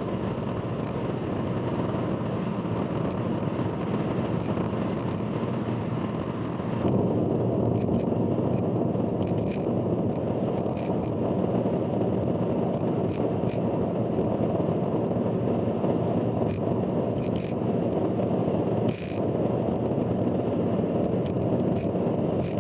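Steady road and tyre noise of a car travelling on an expressway, heard from inside the car. The noise turns heavier and duller about seven seconds in, and short high-pitched clicks come through now and then.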